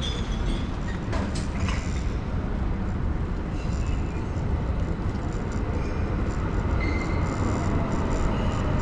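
Street and traffic noise heard from a moving bicycle, with steady wind rumble on the microphone. A few short clicks come about a second in.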